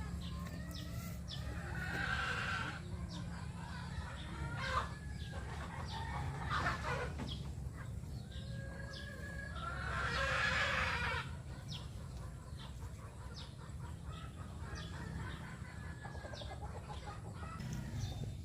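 Chickens clucking on and off, with a louder, longer call about ten seconds in, over a steady low hum.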